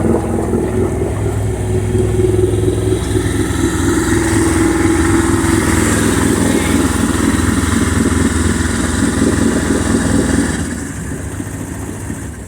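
Boat engine running steadily in gear under test, pumping cooling water through; about ten seconds in its sound drops to a quieter, lower level.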